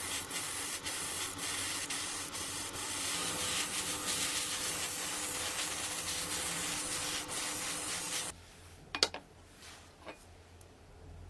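Abrasive rubbing on a hard surface in quick repeated strokes, a steady hiss that cuts off abruptly about eight seconds in. A sharp click follows about a second later.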